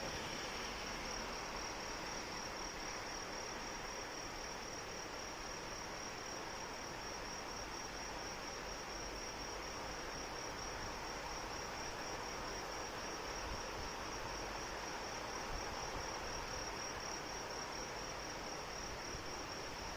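Insects, crickets by their tags, trilling steadily in a high, rapidly pulsing chirr, over a steady hiss of rain.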